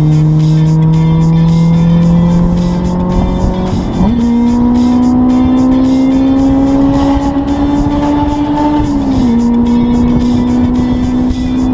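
Honda S2000's F20C four-cylinder engine pulling at high revs through a DIY exhaust with a Helmholtz resonator instead of a silencer. The engine note climbs steadily, jumps higher about four seconds in, and drops sharply just after nine seconds as the revs fall at a gear change.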